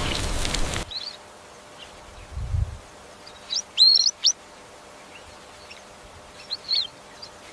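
Birds chirping in short, separate calls: one brief chirp about a second in, a louder cluster of rising chirps around the middle, and another short call near the end. Before this, a loud steady noise cuts off suddenly just under a second in, and a soft low thump follows shortly after.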